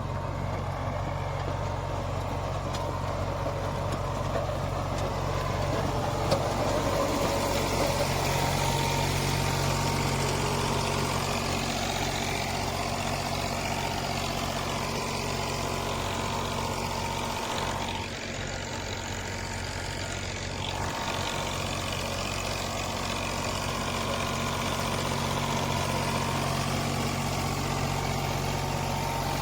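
Eicher diesel tractor engine running steadily under load while driving a rotavator through the soil, with a slight dip in level about 18 seconds in.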